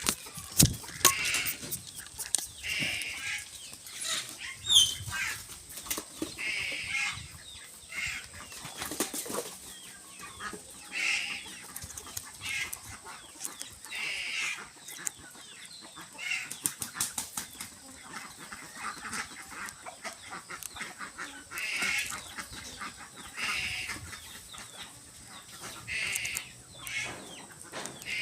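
An eagle's wings flapping and rustling, with sharp clicks and scuffs as it tears at its prey. Short calls sound every second or two.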